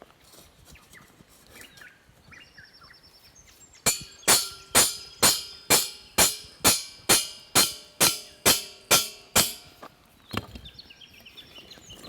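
A run of about thirteen evenly spaced ringing strikes, roughly two a second, starting about four seconds in and stopping abruptly, with bird calls before and after.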